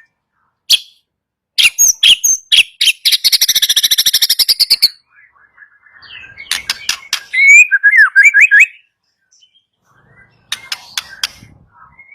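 White-rumped shama (murai batu) singing: sharp clicking notes and a fast harsh rattle lasting about two seconds, then a quick run of rising whistled notes, with more clicks near the end.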